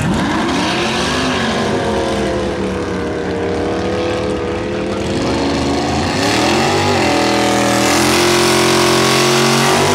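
Drag-racing engines launching off the start line and accelerating hard, the revs climbing fast and then easing through a gear change. About seven seconds in, a second car's engine revs up and is held at steady high revs, with a hiss rising over it.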